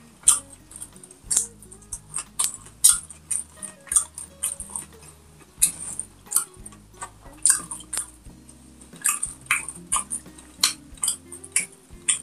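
Close-miked eating sounds: wet chewing and lip smacks of pork and rice eaten by hand, a quick irregular run of sharp smacks two or three a second. Soft background music plays underneath.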